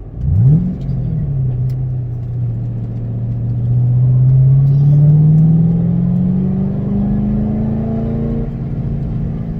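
2006 Ford Mustang GT's 4.6-litre V8 engine: a quick sharp rev right at the start that falls straight back, then a steady climb in revs as the car accelerates, with a drop in pitch near the end as it shifts or lifts off.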